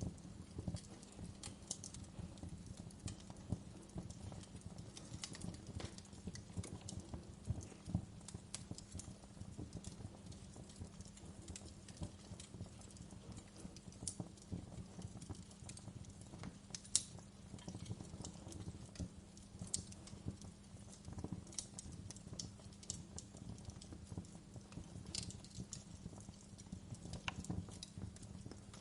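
Wood fire crackling: irregular snaps and pops, one sharper snap about halfway through, over a steady low rumble of the burning fire.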